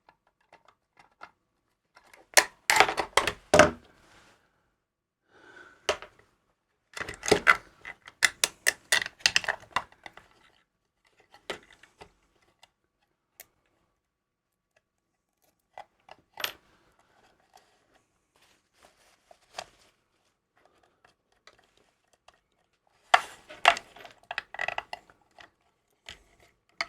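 Small metal parts and hand tools being handled on a workbench: bursts of clicking and clattering in three spells, with scattered single ticks between them.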